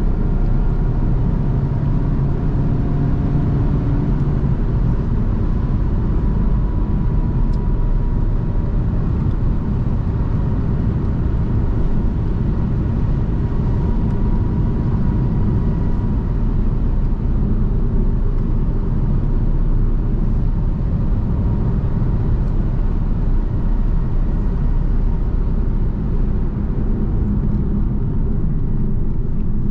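Car driving at a steady pace: an even, low road and engine rumble, with a faint engine hum in the first few seconds that fades.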